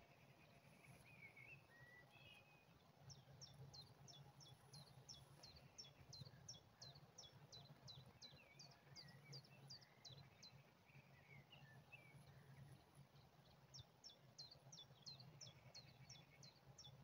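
Faint birdsong outdoors: a small bird repeats quick, high, downward-slurred notes about three or four a second, in two long runs, the second starting about two-thirds of the way in. Other birds chirp more softly and lower, over a faint steady low hum.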